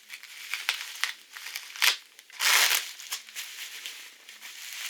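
Packing material crinkling and rustling as it is handled and pulled away, in irregular bursts. The loudest is a longer crinkle about halfway through.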